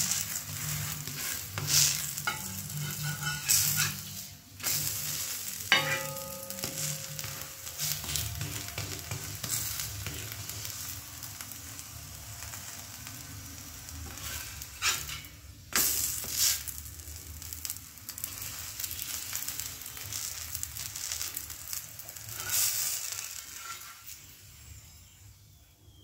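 Stuffed paratha sizzling on a hot flat tawa, with a round flat steel spatula scraping and pressing on it in short strokes every few seconds.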